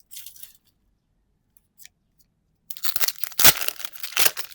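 Foil trading-card booster pack wrapper being handled and torn open: a brief rustle at the start, a pause of about two seconds, then a dense crackling tear through the last second and a half.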